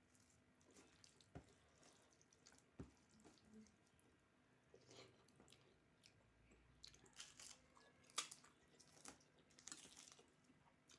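Faint close-up chewing and mouth sounds of someone eating a meal of rice and dal, with scattered short clicks and smacks, the sharpest about eight seconds in.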